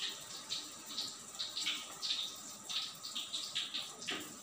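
Close-up wet chewing and lip-smacking of a person eating rice and grilled fish with the hands, in quick irregular smacks.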